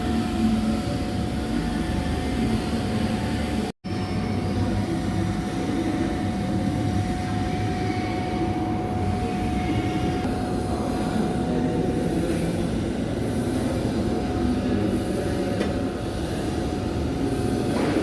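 Steady mechanical rumble and hiss with a constant high whine, cut off for an instant just before four seconds.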